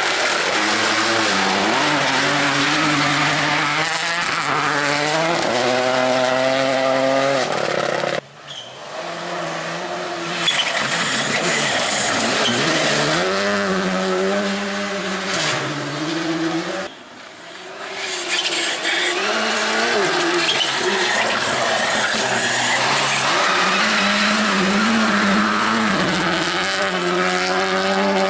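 Rally cars passing at speed on a special stage, engines revving up and dropping back through gear changes, one pass after another. The sound breaks off abruptly about 8 and 17 seconds in, each time followed by another car's engine.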